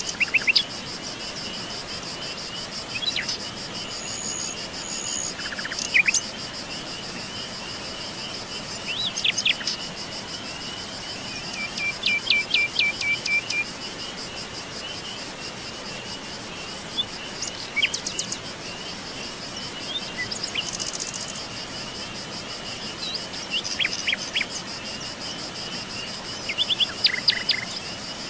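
Wild songbirds calling in short, sharp chirps and quick runs of notes, over a steady high-pitched insect trill.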